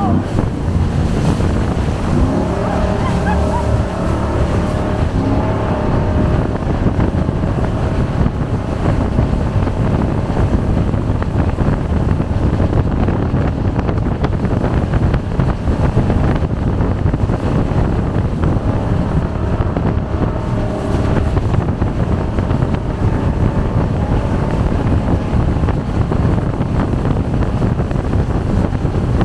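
Jet boat running at speed: a steady engine note mixed with rushing water, and wind buffeting the microphone.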